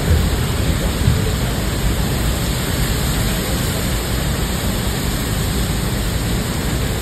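Steady rush of Niagara Falls' water pouring down, an even, unbroken roar.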